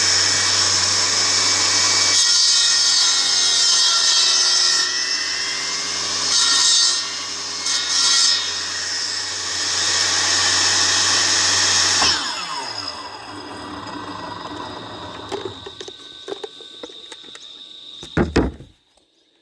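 Electric power saw cutting through wood, running steadily for about twelve seconds, then switched off and winding down with falling pitch. A couple of knocks near the end as the wood is handled.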